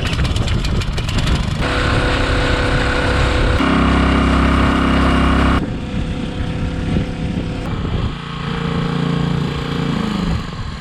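A motor running loud and steady, in several spliced stretches whose pitch and tone change abruptly every two seconds or so.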